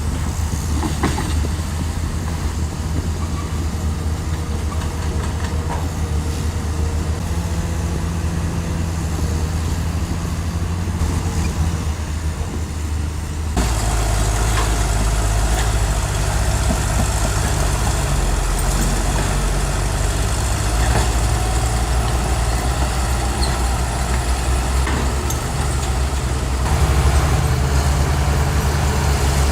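Heavy diesel engine of earthmoving machinery running steadily. About halfway through it changes suddenly to a louder, harsher note.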